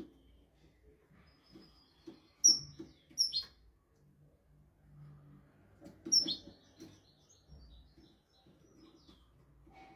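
European goldfinch calling and twittering, used as a song tutor for young birds. Three sharp, high, downward-sliding notes stand out, two close together about two and a half seconds in and one about six seconds in, with softer twittering between.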